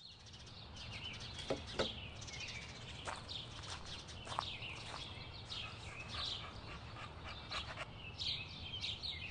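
Small birds chirping and singing over a low steady rumble, with a few sharp knocks in the first half.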